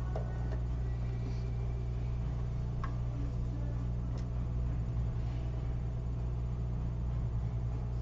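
Steady low electrical hum of running repair-bench equipment, with a couple of faint tool clicks.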